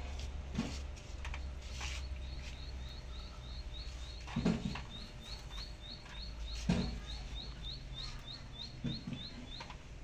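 A small bird chirping a rapid, even series of short high chirps, about three a second, with a couple of louder knocks partway through.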